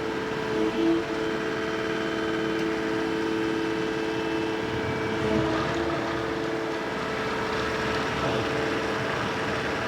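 Road-repair machinery running steadily: an engine with a steady whine that fades about seven seconds in.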